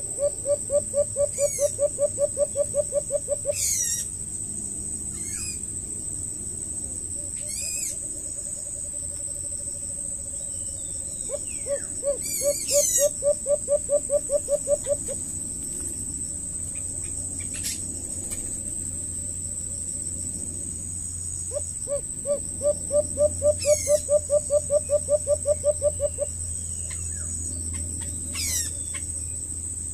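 A bird calling in three runs of rapid low hooting notes, about six a second and three to four seconds each: one at the start, one in the middle, one near the end. Under them a steady high insect drone goes on, with scattered short high bird chirps.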